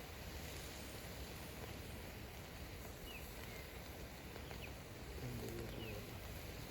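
Steady outdoor background noise with a few faint, short high chirps in the middle, and a brief low pitched sound near the end.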